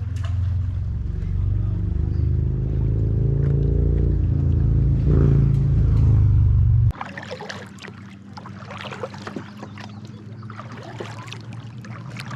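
A loud engine rumble with a hum that rises in pitch, which cuts off abruptly about seven seconds in. After it come light clicks and knocks over a faint water-like hiss.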